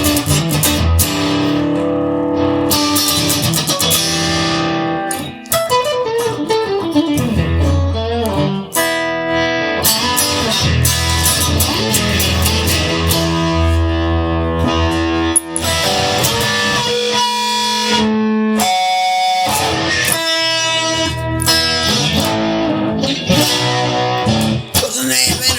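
Instrumental guitar music: a guitar-led passage of a song with a bass line underneath and no singing.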